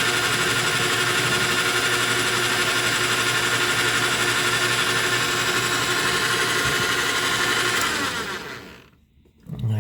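Metal lathe running steadily through a face-milling cut on a copper bolt, its motor and drive giving a constant hum and whine. About eight seconds in it winds down and stops.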